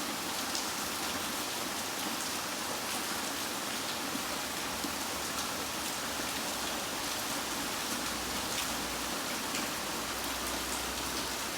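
Heavy typhoon rain pouring down in a steady, dense hiss, with scattered sharp taps of drops striking a surface.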